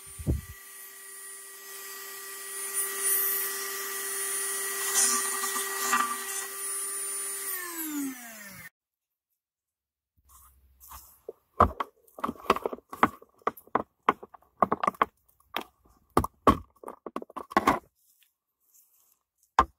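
A small electric motor runs with a steady hum, then winds down in pitch after being switched off, about eight seconds in. After a short pause comes a long run of sharp clicks and knocks, like hard parts being handled and fitted.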